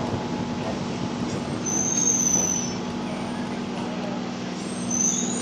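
Passenger train rolling slowly along a station platform: a steady hum over running noise, with a high wheel squeal about two seconds in and another near the end.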